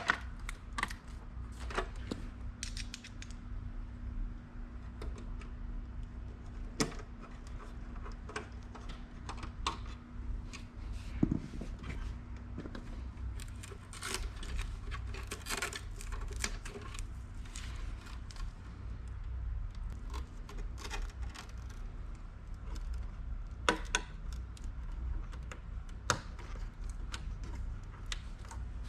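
Hands handling computer hardware: scattered sharp clicks, taps and short rustles of parts and packaging being moved, over a steady low hum.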